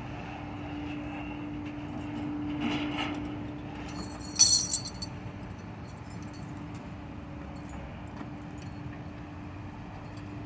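Tow truck running with a steady low rumble and hum. About four and a half seconds in there is one sharp metallic clink.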